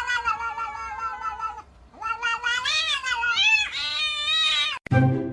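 A cat yowling in two long, drawn-out calls. The first slides down in pitch and ends about a second and a half in; the second wavers up and down and cuts off near the end.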